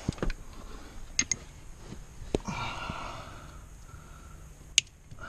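Scattered sharp clicks and light rustling as plastic interior trim and wiring are handled under a car dashboard, with a crisp high click near the end.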